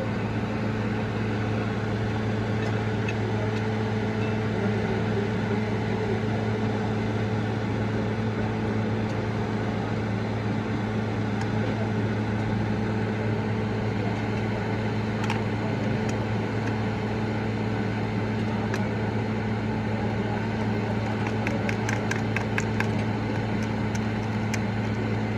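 A steady low mechanical hum at a constant pitch and level, with a few faint clicks near the end.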